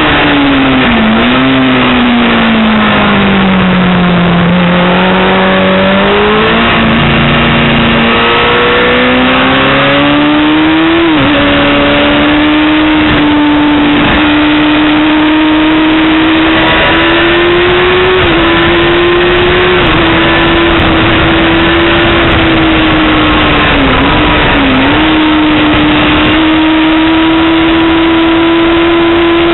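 Yamaha R6's 600cc inline-four engine ridden hard at high revs, heard onboard over steady wind rush. Early on the engine note falls steadily for a few seconds as it brakes and shifts down, then climbs back up and holds high, with two quick dips in pitch near the end.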